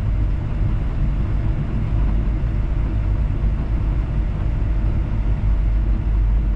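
Komatsu D51 bulldozer's diesel engine running steadily as the dozer travels in second gear, a constant low rumble.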